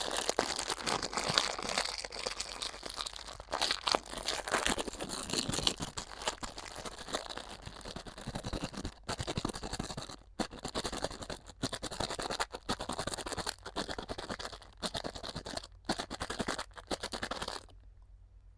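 Close-miked crinkling and scratching of a crinkly material being handled, an irregular crackle full of sharp clicks with short pauses. It stops about a second before the end.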